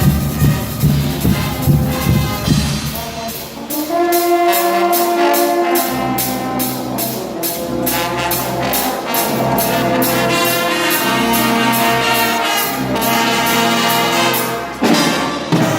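Guggenmusik carnival band playing loud brass music. Drums and percussion lead for the first few seconds, then trumpets and trombones come in with sustained chords about four seconds in, over steady cymbal strokes on the beat.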